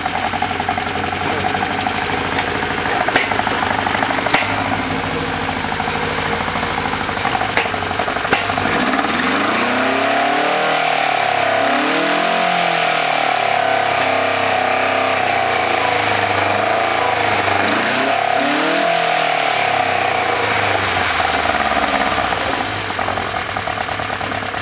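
1976 BMW 2002's four-cylinder engine on twin Weber 40 DCOE sidedraft carburettors, running through an exhaust just after its first start. It idles steadily at first, then from about a third of the way in the throttle is worked by hand at the carburettors and the revs rise and fall several times before settling back down near the end.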